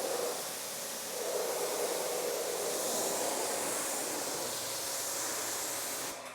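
Steady hiss of a water spray rinsing a car's paint, cutting off near the end.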